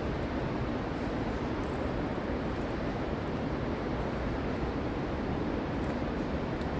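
Steady low road and engine noise inside a moving car.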